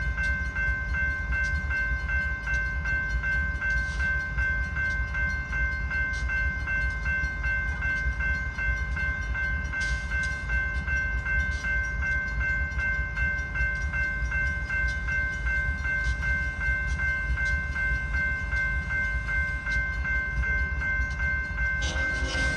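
Safetran railroad crossing bell ringing continuously with rapid, even strokes, over a steady low rumble. The bell still sounds healthy but is starting to wear from the long periods it rings.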